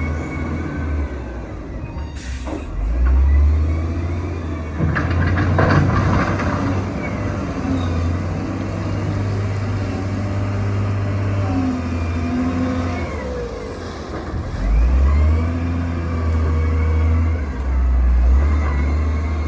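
Heavy diesel earth-moving machine running under load, its engine rumble rising and falling in pitch as it works, with a louder rush of noise for about a second and a half around five seconds in.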